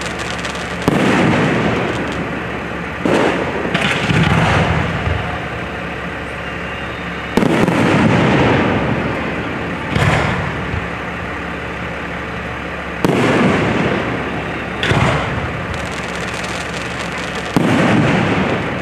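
Aerial fireworks shells bursting at a public display: about eight loud booms a second or two apart, each followed by a long rolling echo that fades out.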